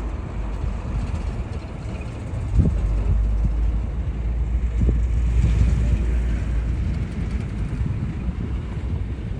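Airbus A330 jet airliner rumbling as it lands, with wind buffeting the microphone. The deep rumble swells about two and a half seconds in and eases off toward the end.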